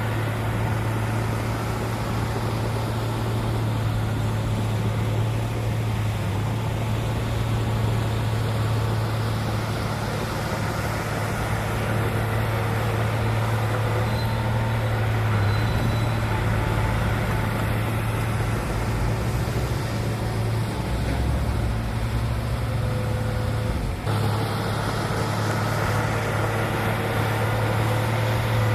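Heavy diesel engine of earthmoving machinery running steadily under load, a deep constant drone, with a brief break about two-thirds of the way through.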